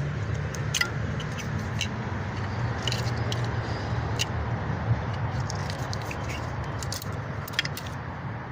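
Scattered light clicks and small rattles of the coil pack harness's plastic electrical connectors being unplugged and handled, over a steady low rumble.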